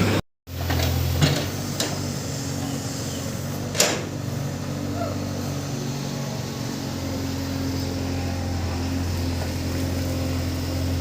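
Heavy diesel engine running steadily at an even pitch, with a few sharp knocks in the first four seconds.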